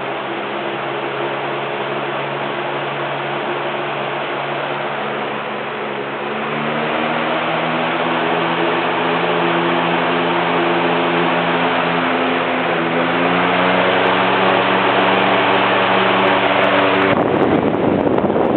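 Lasko 3733 box fan running, its motor hum stacked over the rush of air from the blades. About six seconds in the hum rises in pitch and gets louder as the fan speeds up, and it is louder again near the thirteen-second mark. Near the end the hum gives way to a rough, jumbled rush of air.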